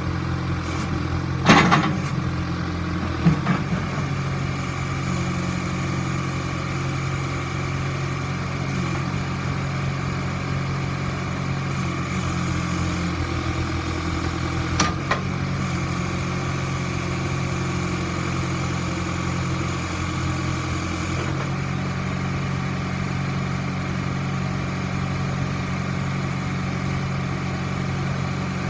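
John Deere 410D backhoe's diesel engine idling steadily, with three sharp clunks, the loudest about one and a half seconds in, another about three seconds in and one about fifteen seconds in.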